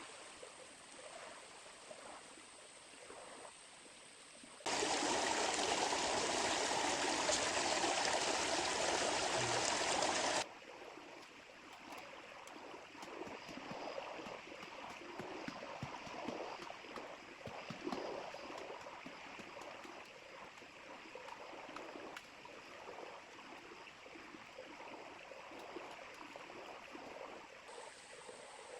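A small river flowing, a steady rush of water. From about five to ten seconds in it is much louder, starting and stopping suddenly. Scattered light clicks and taps sound in the quieter stretch after it.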